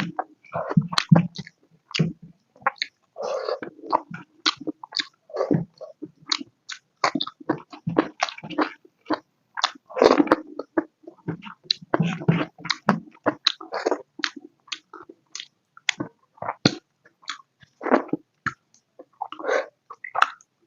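Close-miked chewing of pork curry with potato: wet, smacking mouth sounds and bites, in quick irregular clicks and squelches.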